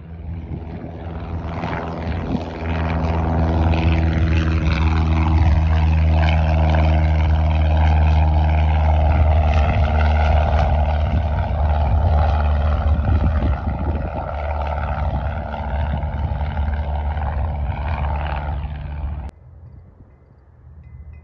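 Light single-engine piston propeller airplane running at high power, loud and steady after building up over the first couple of seconds. It stops abruptly near the end.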